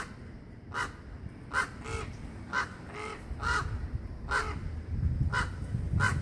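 A bird calling over and over in short, separate calls a little under a second apart, about nine in all.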